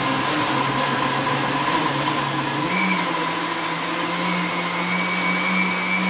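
Philips countertop blender running, blending milk, peaches and banana into a smoothie. The steady motor whine steps up in pitch about halfway through and then holds.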